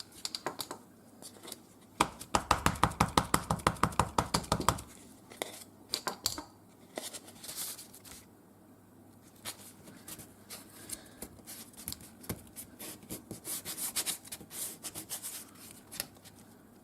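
Hands working craft materials on a tabletop: a fast, even run of taps, about nine a second, lasting about three seconds, then scattered clicks and rubbing as paper and stamp are handled.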